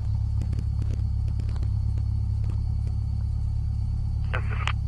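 Cessna 172's piston engine and propeller running on the ground, a steady low drone heard inside the cabin, with faint clicks over it.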